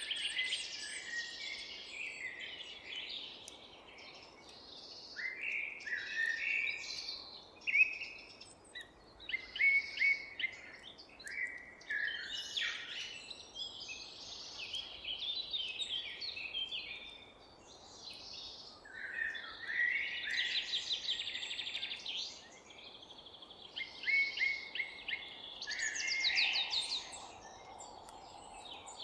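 Several songbirds singing and chirping together in overlapping high phrases and rapid trills, with short lulls between, over a faint steady background hiss.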